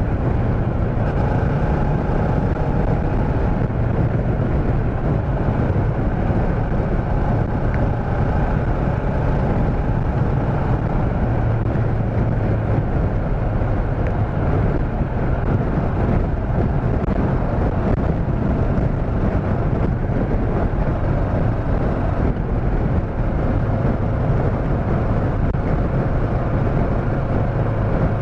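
Motorcycle riding at a steady speed: engine drone and wind rush on the helmet or body microphone, holding steady throughout.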